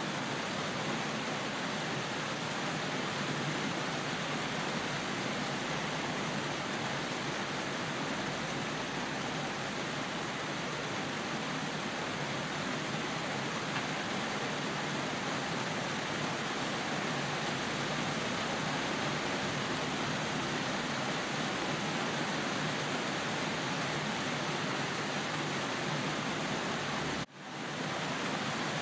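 Steady rainfall, an even unbroken hiss of drops with no thunder. About 27 seconds in, the sound drops out for a moment and swells straight back.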